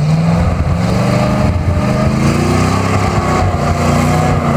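1968 International pickup's engine revving up under load, its pitch rising for about two seconds and then holding steady.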